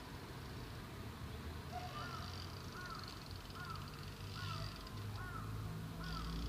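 A bird calling the same short rising-and-falling note over and over, about once every three-quarters of a second, over a low steady outdoor background hum.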